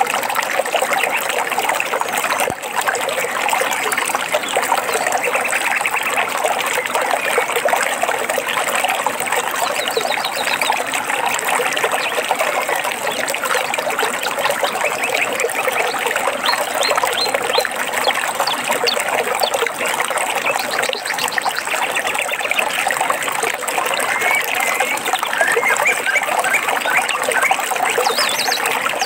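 Water trickling and splashing steadily, like a stream or small waterfall, with faint bird chirps now and then over it.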